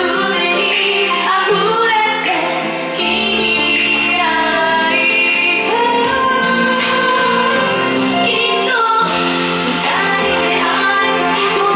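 A woman singing a slow, gentle song with instrumental accompaniment.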